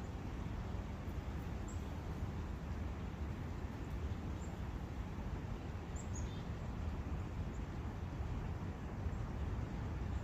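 Steady background rush of a forest brook, with a few faint, short, high bird chirps scattered through.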